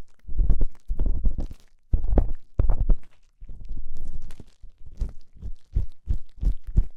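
ASMR ear cleaning: an ear pick scraping and rubbing inside a microphone's ear, in low, crunchy strokes of about two a second. Near the middle comes one longer rub, then the strokes turn short and quick, about three a second.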